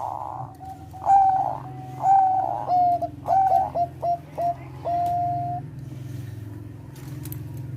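Zebra dove (Thai 'perkutut bangkok' strain) singing: a run of short clipped coos, several ending in quick downward hooks, closing on one longer held note about halfway through. A steady low hum runs underneath.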